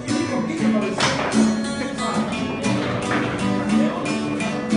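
Guitar strumming chords in a steady rhythm, the instrumental opening of a sertanejo song.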